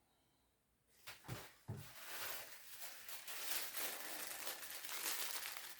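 Two soft knocks, then packaging being handled: a busy crinkling and rustling as small ceiling-fan mounting parts are taken out of their packing.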